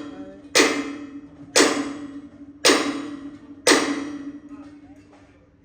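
A hammer striking metal on gearbox parts, four even blows about a second apart, each ringing out before the next.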